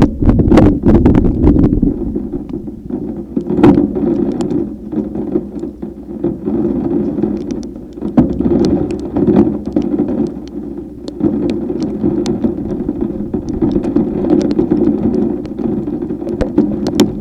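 Thunderstorm wind buffeting the microphone with a heavy, uneven rush, and scattered sharp ticks of rain hitting throughout.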